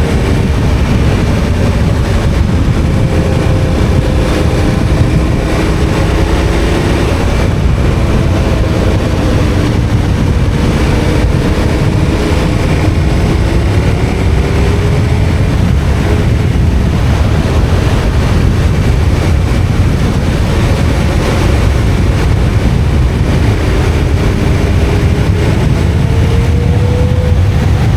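KTM 1290 Super Adventure R's V-twin engine running while riding, its pitch slowly rising and falling with the throttle, over a steady rush of wind and road noise.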